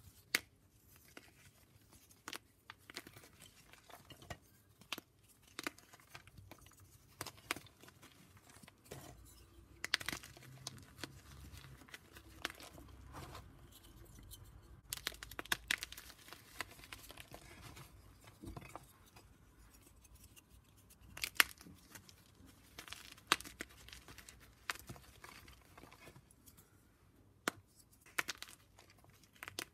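Gym chalk being shaved and crumbled: irregular dry crunches, scrapes and crackles, with a few sharper snaps.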